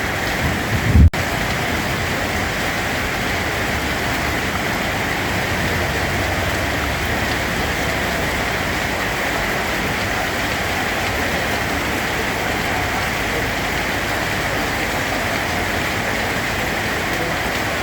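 Steady, even rainfall. About a second in there is a brief low thump, followed by a momentary cut in the sound.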